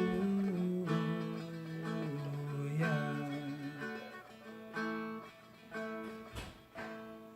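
Seagull Merlin M4, a four-string dulcimer-style instrument, strummed in slow chords, each strum ringing out and fading before the next, about one a second.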